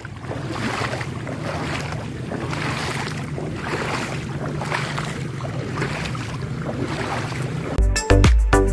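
Heavy rain and water on a flooded street, with a low steady engine hum under the rushing noise. Music with a strong beat cuts in near the end.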